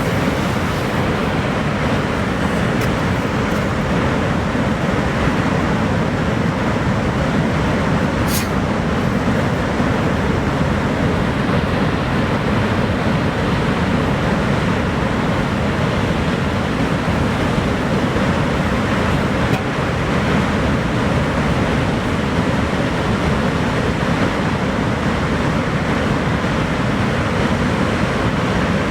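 Niagara Falls' water plunging, a steady, dense rush of noise heaviest in the low and middle range.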